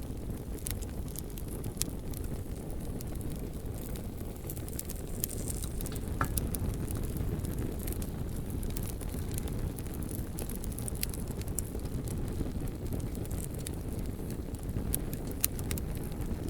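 Bonfire of burning logs: a steady low rumble with scattered sharp crackles and pops of the wood throughout.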